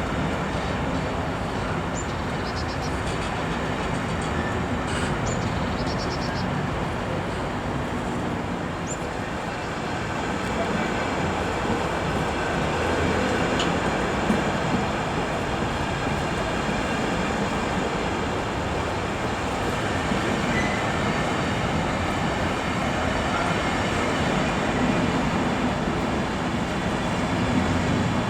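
A train running past on the track: a steady, continuous rolling noise of wheels on rails throughout.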